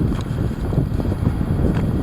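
Heavy wind gusting and buffeting the microphone: a loud, uneven low rumble.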